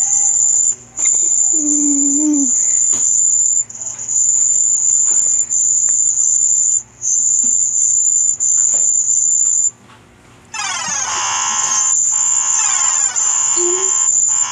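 Sound effects: a loud, steady, very high-pitched electronic tone, cut by short gaps. After a brief drop about ten seconds in, it returns with a dense, buzzy layer of many falling tones underneath.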